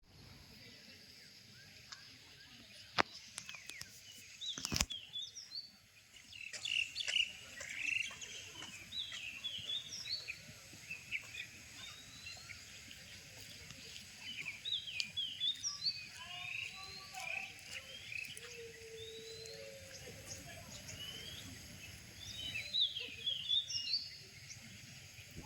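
Several birds chirping and calling in quick, short notes over a steady low background hum, with two sharp clicks about three and five seconds in.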